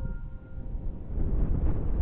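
Wind buffeting the microphone: a loud, uneven low rumble that grows stronger about a second in. The last notes of a mallet-percussion jingle fade out at the start.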